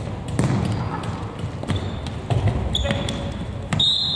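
Futsal ball being kicked and bouncing on an indoor court, sharp thuds echoing in the sports hall over players' voices, with a high steady whistle starting near the end.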